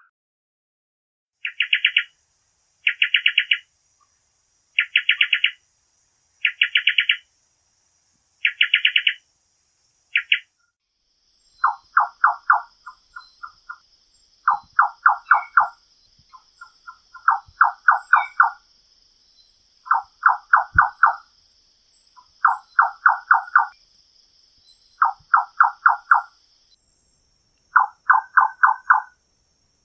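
Nightjar calls: short bouts of rapid pulsed notes repeated about every two seconds. About ten seconds in, a second, lower-pitched recording takes over, with longer pulse bouts every two to three seconds and quieter short pulse runs between them.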